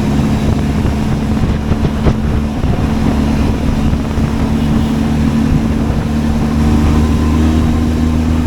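Benelli TRK 502X motorcycle's parallel-twin engine running at a steady speed, with wind noise on the microphone.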